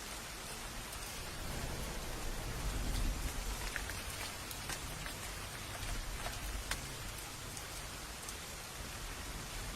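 Steady rain falling, with individual drops ticking close by. A low rumble swells and fades about three seconds in.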